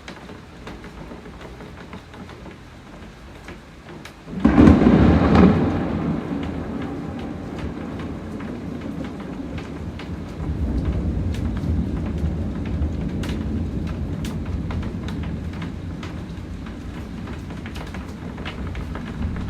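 Rain falling steadily with scattered sharp drips. About four seconds in, a loud thunderclap breaks and rolls into a long low rumble that swells again around ten seconds and slowly fades.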